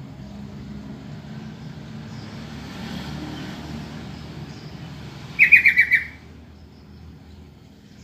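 Yellow-vented bulbul call: one quick burst of about six rapid chattering notes, about five and a half seconds in, over a low steady hum.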